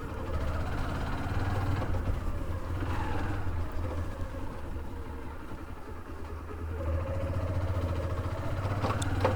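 Motorcycle engine running, its pitch rising and falling a few times as the throttle changes, with a steady low hum underneath. It gets louder about seven seconds in, and there is a short click near the end.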